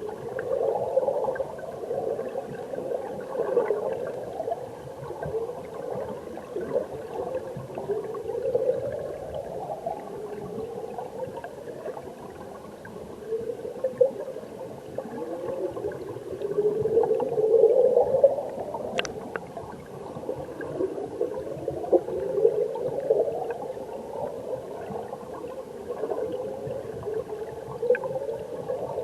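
Stream water heard underwater: a continuous churning gurgle of flowing water and bubbles, swelling and rising in pitch every few seconds. A single sharp click sounds about two-thirds of the way through.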